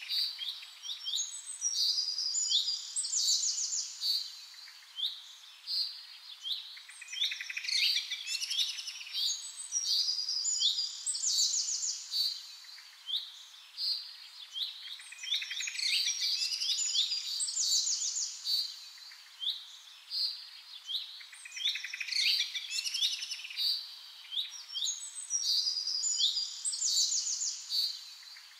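Birds chirping and singing: many quick chirps, trills and short falling notes, overlapping in a busy chorus that swells and dips every few seconds.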